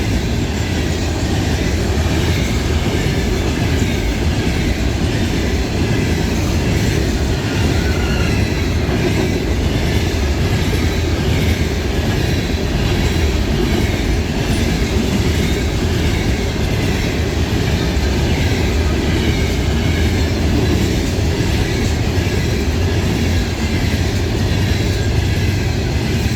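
Freight cars of a CN potash train rolling past at speed: a steady rumble and clickety-clack of steel wheels on the rails, with faint wheel squeal.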